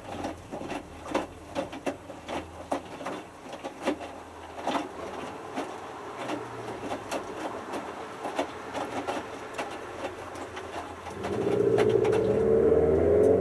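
Hotpoint Futura HF8B593 washing machine in the main wash, its drum tumbling a small wet load with irregular knocks and sloshes over a low hum. About eleven seconds in, a louder wavering hum sets in.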